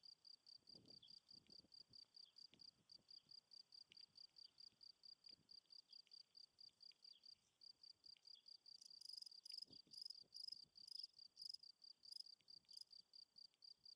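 Faint insect chirping in a rapid, even pulse of about five chirps a second. From about nine seconds in, a louder, higher-pitched chirp joins, repeating roughly twice a second for a few seconds.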